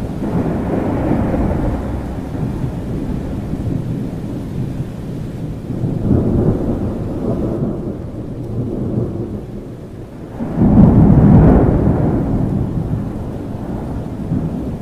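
Thunderstorm: steady rain under rolling thunder that swells and fades. The loudest roll of thunder breaks in suddenly about two-thirds of the way through, then dies away.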